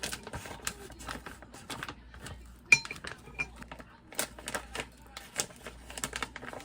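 Cutlery and dishes clinking and clattering in irregular taps during food preparation. One sharp ringing clink, the loudest sound, comes a little under three seconds in.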